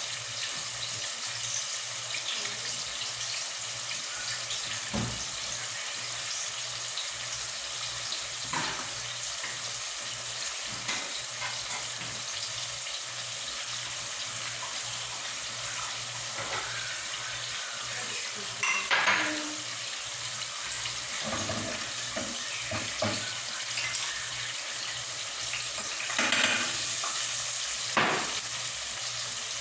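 Pork ribs frying in a pan, a steady sizzling hiss, with scattered knocks and clatters of pots and utensils, the loudest about two-thirds of the way in and near the end.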